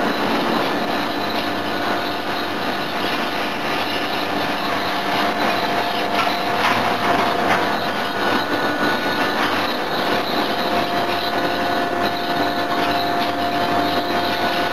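Steady mechanical running noise of forging machinery, with a faint steady hum and a few light knocks around the middle; no hammer blows stand out.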